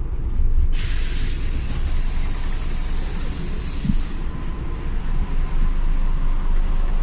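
Scania OmniLink city bus heard from on board: a low rumble from the engine, and a loud hiss of compressed air starting about a second in and cutting off after about three and a half seconds.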